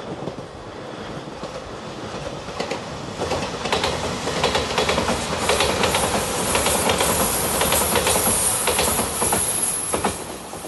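Anpanman-liveried JR Shikoku limited express electric train passing close by at speed: a rumble that builds up, wheels clacking over rail joints loudest in the middle, then fading as it moves away near the end.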